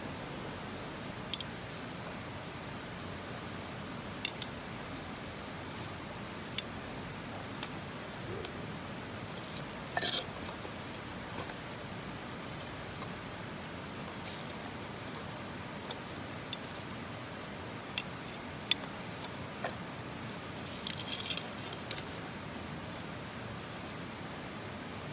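Scattered sharp clicks and light clinks over a steady hiss, with a small cluster about ten seconds in and another about twenty-one seconds in.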